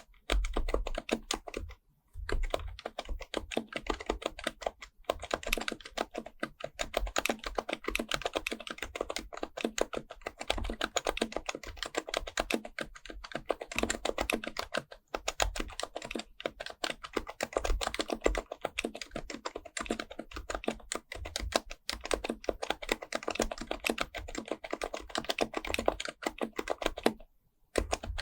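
Continuous fast typing on an HHKB Pro Type-S keyboard with BKE-9400a, a silenced Topre electrostatic capacitive board. The keystrokes come in a rapid, steady stream, with a short pause about two seconds in and another near the end.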